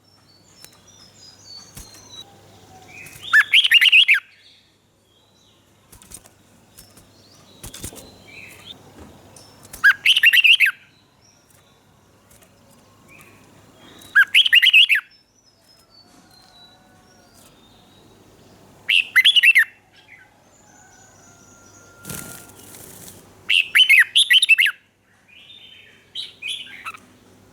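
Red-whiskered bulbul singing: short, loud, warbled song phrases of about a second each, repeated every four or five seconds, about six in all, with fainter chirps between them.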